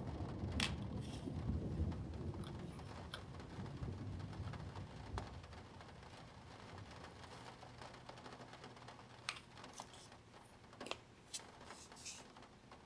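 Small plastic clicks and taps from handling Spirograph pieces, scattered and irregular, with a low rumble of handling that fades away over the first few seconds.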